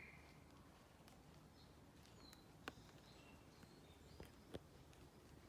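Quiet woodland ambience: a few soft footsteps on a path, and several faint, short bird chirps.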